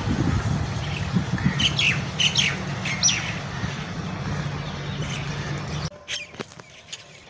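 Birds calling over a farmyard, a run of short squawks and falling chirps, over a steady low rumble of wind or handling noise that cuts off about six seconds in.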